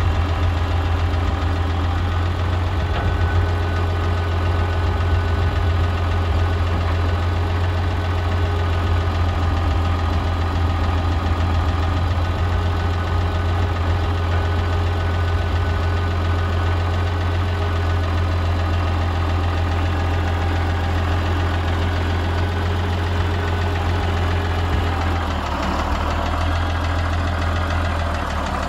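International 860 diesel tractor engine running steadily; late on its speed drops a little, in two small steps.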